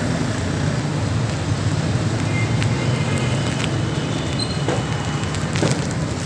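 The Toyota Hilux's 4400 cc V8 engine idling steadily.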